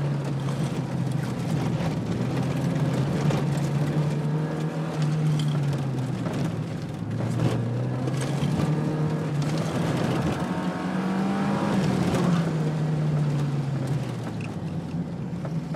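Car engine, heard from inside the cabin, working hard through an autocross course. Its pitch rises and falls repeatedly as the car accelerates and slows between cones, then the engine eases off near the end.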